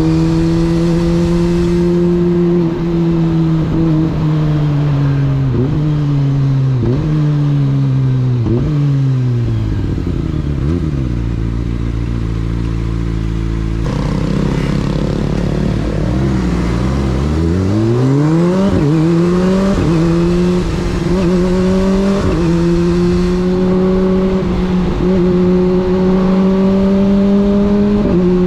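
Sport motorcycle engine heard from the bike, its note falling steadily as the bike slows, then sitting at a low rumble around the middle. It picks up again, climbing in steps through the gears and settling to a steady cruise.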